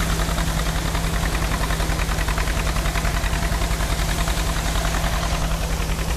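Allis-Chalmers All-Crop 66 harvester running steadily in the field while harvesting wheat, its engine and threshing machinery giving a deep hum with a fast, even pulsing.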